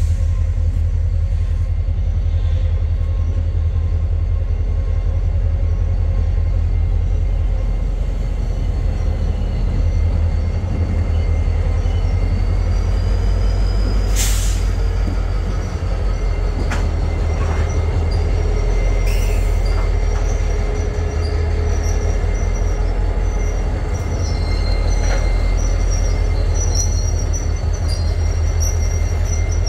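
Train rolling along the tracks: a steady low rumble with thin, high wheel squeal, and a sharp clank about 14 seconds in.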